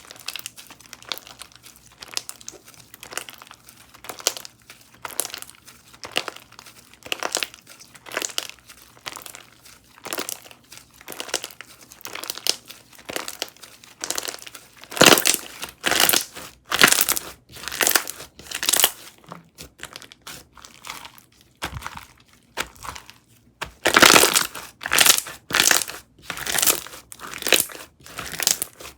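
Slime being squished and pressed by hand, making crinkly, crackling clicks. The clicks are small and quick at first; from about halfway they turn louder and come about once a second, with a short pause about two-thirds of the way through.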